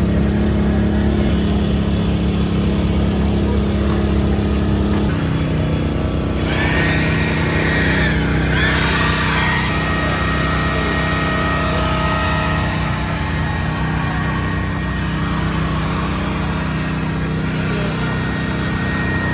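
Motorcycle engine running steadily, its note shifting about five seconds in, with a thin steady whine joining shortly after.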